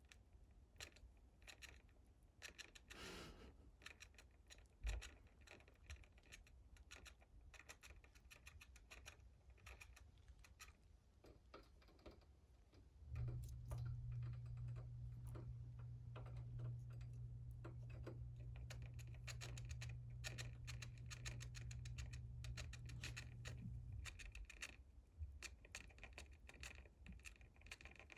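Faint, irregular small clicks and scratching throughout, with one louder knock about five seconds in. A steady low hum starts about thirteen seconds in and stops about twenty-four seconds in.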